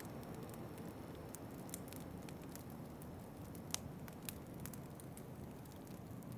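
Wood fire crackling, with irregular small pops and one sharper pop near the middle, over a steady low rush of winter wind.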